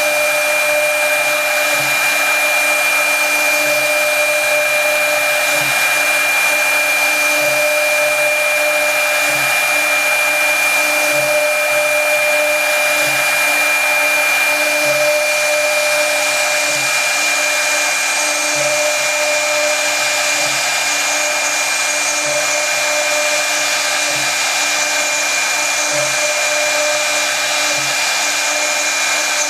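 Brushless spindle of a CNC router running and milling wood: a steady high-pitched whine over a constant cutting hiss, with a faint low pulse repeating about every two seconds.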